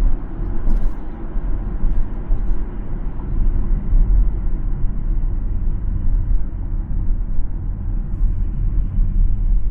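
Steady low rumble of a car driving: road and tyre noise with the engine underneath, and one short click just under a second in.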